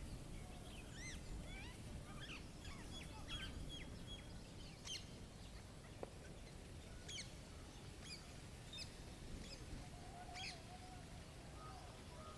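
Wild birds chirping and calling intermittently, short sharp notes and quick slurred calls, over a low steady rumble of outdoor ambience; a lower wavering call comes in near the end.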